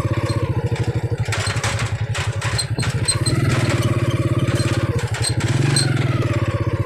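A small engine idling steadily, with a rapid even pulse.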